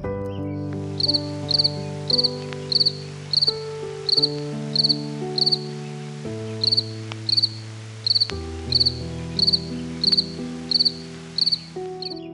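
An insect chirping in a steady rhythm, about one and a half to two short trilled chirps a second, with a brief pause midway, over soft background music with held chords.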